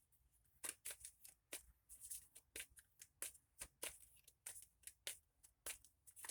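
Tarot cards being shuffled by hand: faint, quick card-on-card snaps, about four a second.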